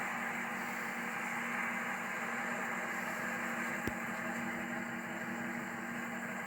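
The 1998 Jeep Grand Cherokee 5.9 Limited's 5.9-litre V8 idling steadily, with a single sharp click about four seconds in.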